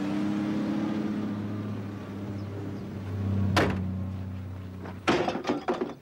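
Old car's engine idling steadily, then shutting off about five seconds in. A sharp click comes a little past halfway, and a quick clatter of car-door knocks follows near the end.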